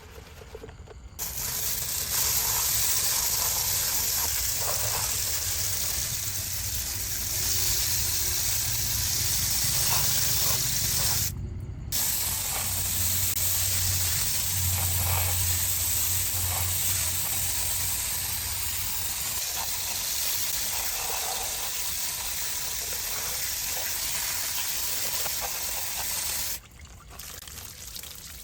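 Water sprayer hissing as it sprays down a mud-covered diecast model truck, in two long runs with a brief break about eleven seconds in, cutting off near the end.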